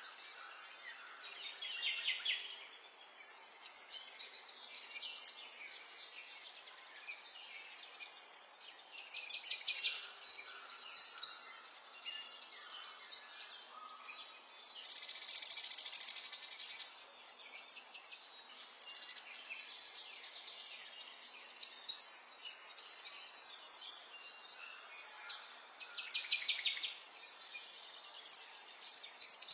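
Several songbirds chirping and singing, with high-pitched overlapping calls and frequent rapid trills. A longer trill about halfway through is the loudest. A faint steady hiss of background noise lies beneath.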